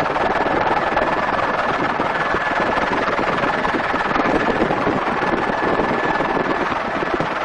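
Helicopter in flight heard from inside its open-sided cabin: steady engine and rotor noise mixed with rushing wind, with a thin high whine running through it.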